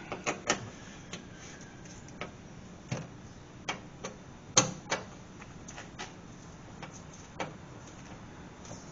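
Irregular light clicks and taps from a hand tool snugging up the fasteners of the car's plastic splash pan under the engine.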